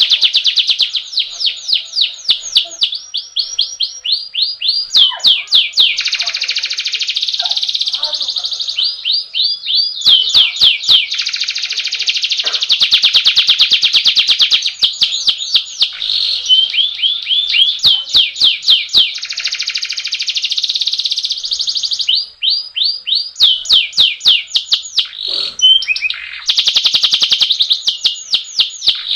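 Domestic canary singing a long rolling song: fast trills of rapidly repeated high notes, one trill giving way to another every second or two, with brief gaps.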